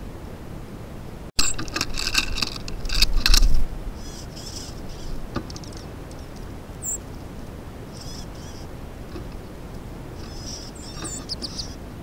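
Small songbirds calling at a feeder: after a brief dropout about a second in, a run of loud, harsh, rapidly repeated calls with a low rush of noise under the loudest part, a single sharp high chip near the middle, and another short burst of buzzy chatter near the end.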